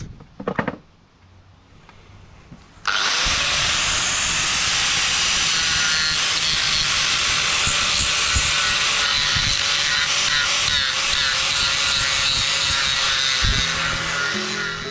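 Electric power tool with a ripper bit cutting into a timber post: it starts suddenly about three seconds in and runs steadily through the wood, its motor tone holding with a slight waver under load.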